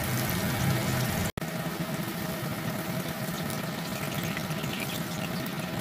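Tofu slices frying in hot oil in a wok, a steady sizzle. The sound cuts out for an instant about a second in.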